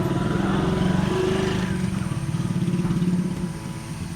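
A vehicle's engine running with a fast, even pulse, dropping noticeably in level about three seconds in.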